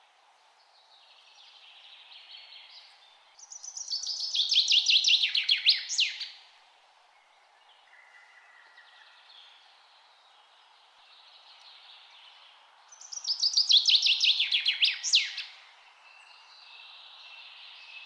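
A songbird singing twice, about ten seconds apart: each song is a fast run of notes falling steadily in pitch and ending in a quick sweep. Fainter birdsong is heard between the two songs, over a steady background hiss.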